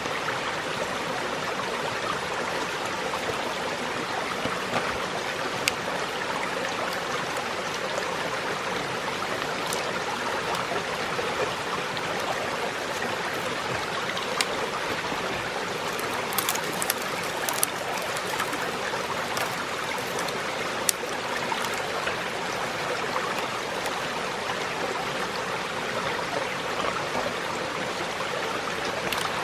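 A stream running steadily, a constant rushing of water. A few sharp clicks sound over it around the middle.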